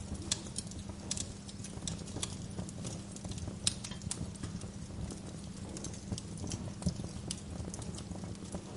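Wood fire crackling: irregular sharp pops and snaps over a steady low rumble, with a few louder pops.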